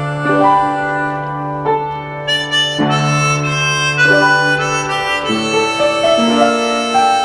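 Harmonica playing a melody, the notes changing every half second or so, over a held low note that drops out about five seconds in.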